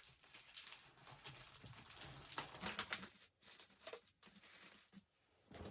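Faint, irregular rustling and light crinkling of tissue paper and paper grass as items are handled and arranged, with a few small taps.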